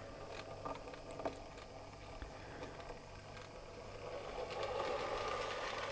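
Faint whirr of an N gauge model locomotive's motor and wheels running slowly on the track, growing louder from about four seconds in.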